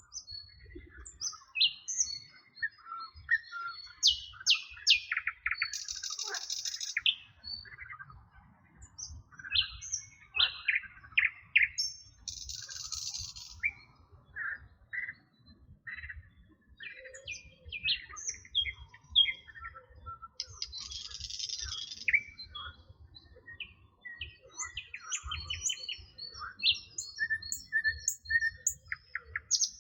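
Several songbirds singing and chirping together in quick, overlapping calls, with a harsh buzzy burst about a second long coming three times, several seconds apart.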